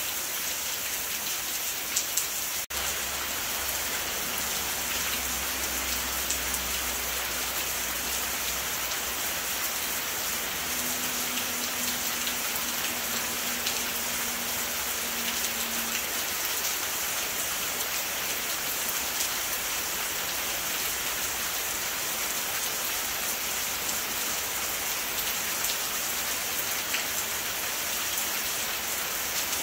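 Steady rainfall: an even hiss of rain with many fine individual drop ticks throughout. There is a brief break in the sound about three seconds in.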